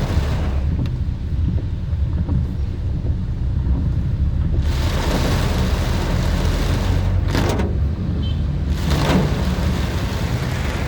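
Vehicle driving through heavy rain: a steady low rumble of engine and road. The hiss of tyres on the wet road swells and fades three times, about five, seven and nine seconds in.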